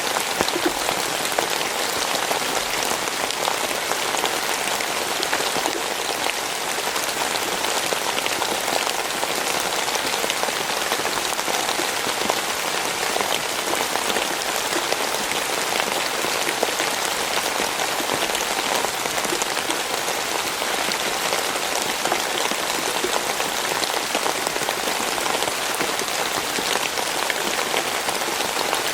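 Steady rain falling, a constant hiss of many drops spattering on a surface, with individual drop ticks.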